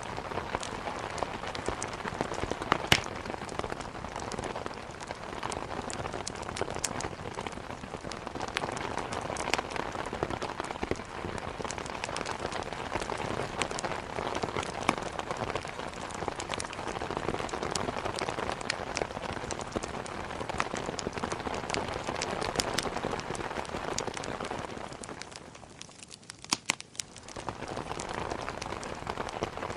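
Steady pouring rain mixed with scattered sharp pops of a wood fire crackling. About 25 seconds in, the rain briefly fades and a few sharp pops stand out before the rain comes back.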